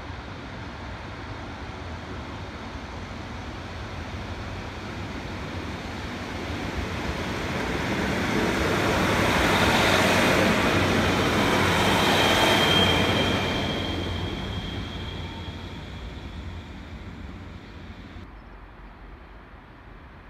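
A GWR diesel multiple unit passing along the station platform: its rumble grows steadily louder as it approaches, is loudest about halfway through, then fades as it draws away. A thin high-pitched squeal sounds for a few seconds just after the loudest point.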